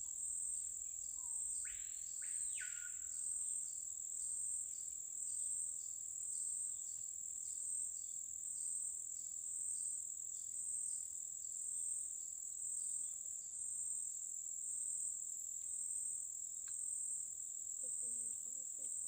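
A chorus of rainforest insects makes a steady, high-pitched pulsing buzz, at about one and a half pulses a second. About two seconds in, a bird gives one whistle that rises and then falls.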